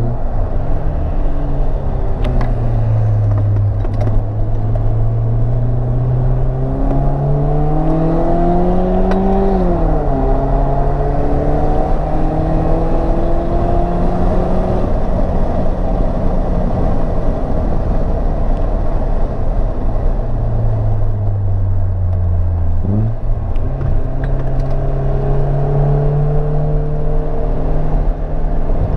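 Mercedes-Benz SLK R170 with an aftermarket exhaust, heard from inside the cabin. It accelerates with the engine note climbing, and the automatic gearbox upshifts about ten seconds in. Later the car eases off, and near the end the engine note jumps up as it downshifts for a corner, over steady tyre and road noise.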